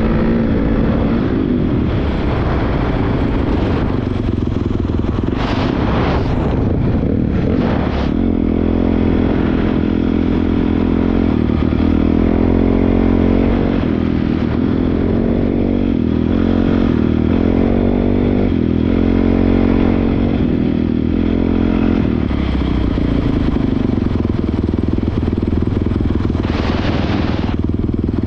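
Honda CRF450R's single-cylinder four-stroke dirt bike engine running under way, its revs rising and falling with the throttle. A few brief rushing noises cut in, about five to eight seconds in and again near the end.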